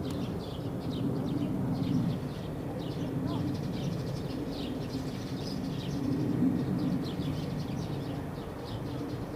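Small birds chirping: many short, high calls in quick succession, over a steady low rumble that swells twice.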